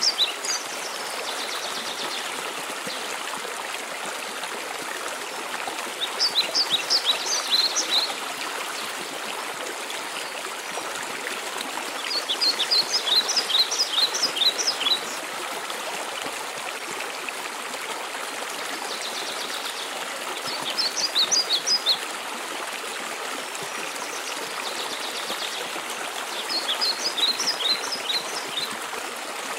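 Steady rush of a mountain waterfall and stream. Over it, a bird sings short phrases of quick, high notes, each about two seconds long, five times at intervals of six to eight seconds.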